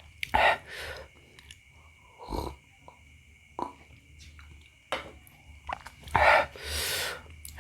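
A person breathing hard through the mouth from the heat of very spicy food: several short, loud breaths, with a longer hissing breath near the end, and quiet gaps of eating between.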